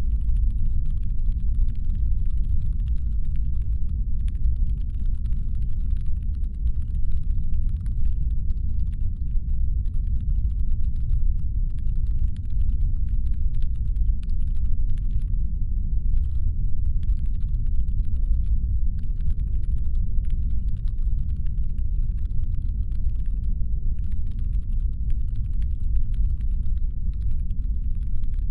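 Deep brown noise, a steady low rumble standing in for a spaceship's engine hum. Over it runs a faint, rapid clicking, like keys on a console, that pauses briefly twice.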